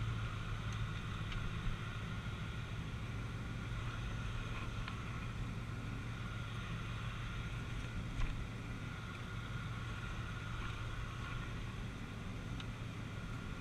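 Car driving at a steady pace, heard from inside: an even, low engine drone with road noise and no revving. A brief click about eight seconds in.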